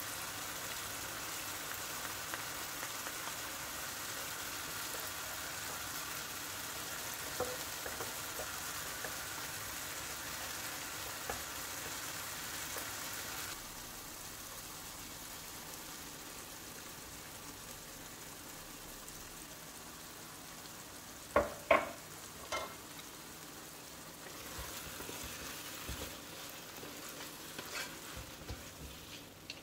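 Mushrooms, peppers and onion sizzling in olive oil in a pot. The sizzle drops quieter about halfway through as tomato puree is poured in. Later come two sharp knocks, then a wooden spoon stirring and knocking in the saucy mixture near the end.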